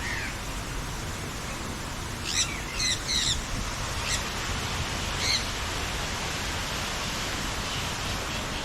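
Birds giving a few short, sharp calls: three in quick succession a couple of seconds in, then two single calls a little later. Under them runs a steady rushing hiss.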